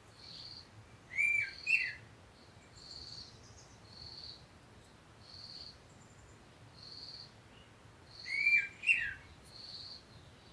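Birds calling: one repeats a short, high single note about once a second, while another gives a louder two-part call twice, about a second in and again near the end.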